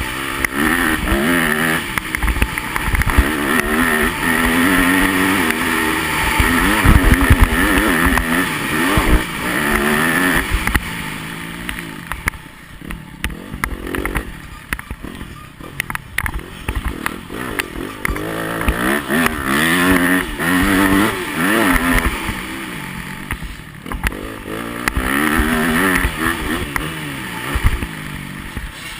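Yamaha motocross bike engine racing round a dirt track, its revs climbing and dropping again and again as it accelerates and shifts. It eases to a quieter, lower stretch about halfway through, then pulls hard again.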